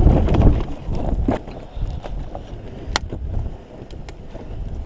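Wind buffeting the microphone in a blizzard: a gusty low rumble, strongest in the first second and a half, then easing, with a few sharp clicks.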